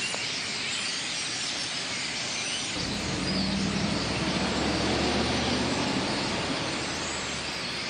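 A huge flock of blackbirds chattering and calling together in a dense, continuous din, described as so loud. About three seconds in, a passing vehicle's low engine hum rises under the birds and fades near the end.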